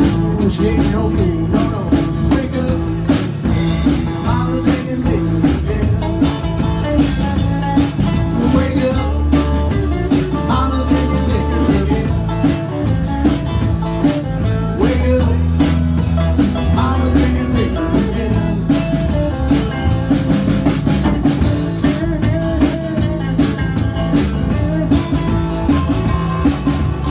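A rock band playing an instrumental break with no vocals: guitar over bass and a drum kit keeping a steady beat.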